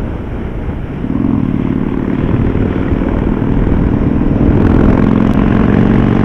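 Victory Vegas Jackpot's V-twin engine running steadily as the motorcycle rides along, its note growing louder about a second in.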